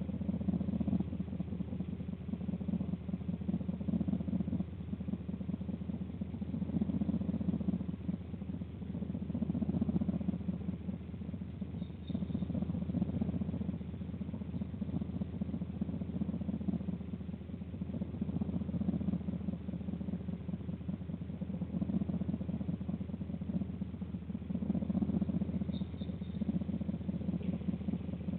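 A steady low mechanical hum that swells and eases every few seconds.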